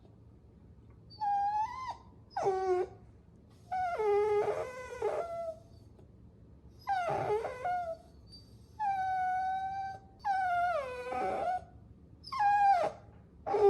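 Puppy whining: a run of about seven high-pitched whines with short pauses between them. Some whines are held level, while others slide down in pitch.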